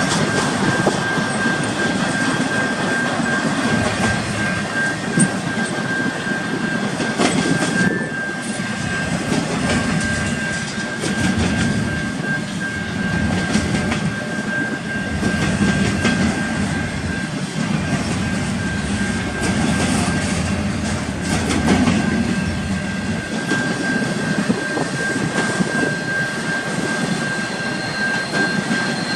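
Intermodal freight train rolling past: a steady rumble of steel wheels on rail, with clicks of wheels over rail joints and a thin, steady high-pitched squeal from the wheels.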